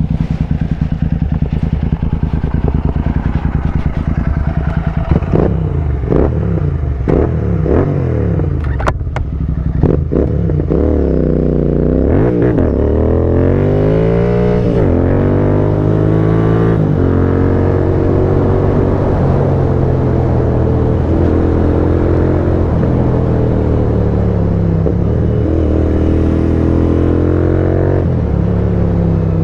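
Royal Enfield Continental GT 650's 648 cc parallel-twin engine through an aftermarket exhaust while being ridden. For the first ten seconds it gives short revs with sharp cracks. The revs then fall and climb through a couple of gear changes, and it settles into a steady cruise for the last third.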